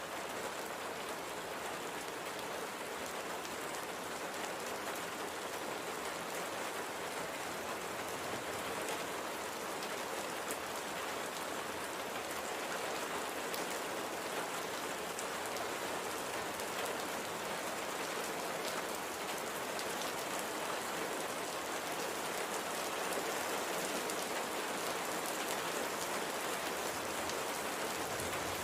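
Steady light rain falling, an even patter of drops on a surface with faint scattered drop ticks.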